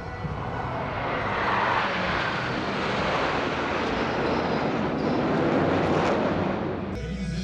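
KAI T-50B jet trainers flying past: a rush of jet noise that swells over the first couple of seconds, with a falling whine as they go by. It cuts off suddenly near the end.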